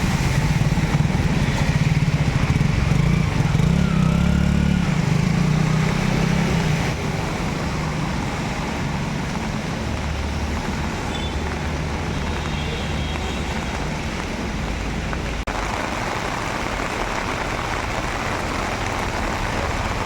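A motor vehicle's engine running close by for about the first seven seconds, then easing off into a steady wash of street traffic noise.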